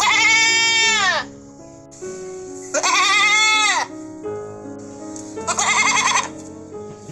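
A goat or sheep type of livestock bleating three times, each call about a second long with a quavering pitch that drops at its end, over background music.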